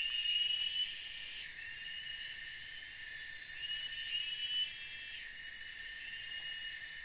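Dense chorus of forest insects: a steady high-pitched buzzing, with a whistling trill that rises slightly and comes back every couple of seconds.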